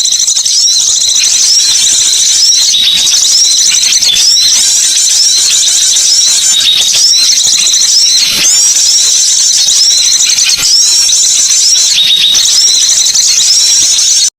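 Recorded calls of small songbirds: dense, high, thin chirping, with a short curved note repeating about once a second over a continuous chatter.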